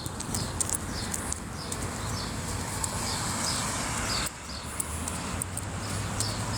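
A bird chirping in a quick, evenly spaced series of short high notes, about two a second, over a steady low rumble of wind or traffic.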